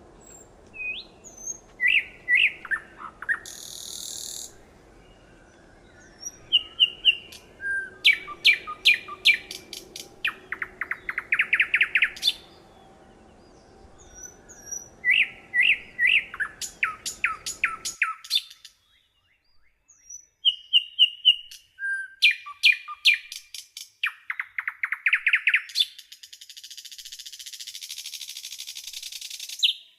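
Songbird singing: repeated bursts of quick, high chirps and rapid trills with short whistled notes between them. A faint background hum drops out abruptly about halfway through, and a hiss comes in near the end.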